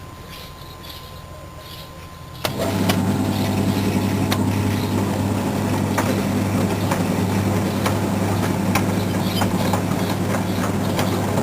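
Washing machine running with a steady hum, stopped at first, then starting up suddenly about two and a half seconds in and running on with scattered light clicks.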